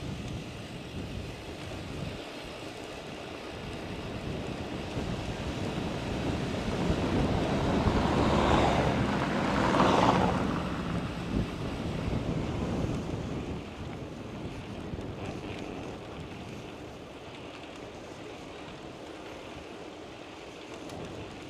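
A motor vehicle passing: its tyre and engine noise grows louder for several seconds, peaks about halfway through and fades away, with wind buffeting the microphone.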